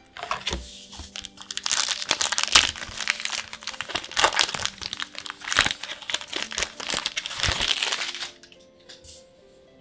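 Foil booster-pack wrapper crinkling as it is torn open and handled, a dense run of crackles for about eight seconds. Soft background music plays underneath.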